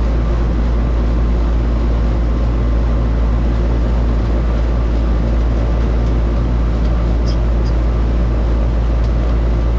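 Air conditioner outdoor condensing unit running with a steady low hum. A couple of faint light ticks come about seven seconds in.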